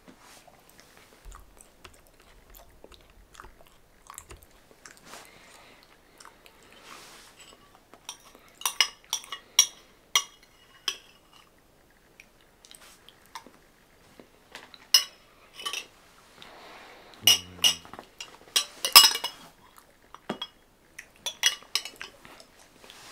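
Close-miked eating: chewing and smacking, with clusters of sharp clicks and clinks that come and go, the loudest in the second half.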